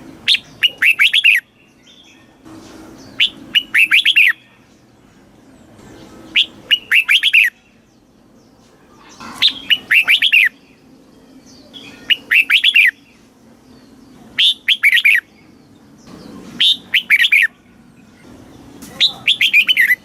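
Red-whiskered bulbul singing: eight short, rapid phrases of several clear notes each, repeated every two to three seconds.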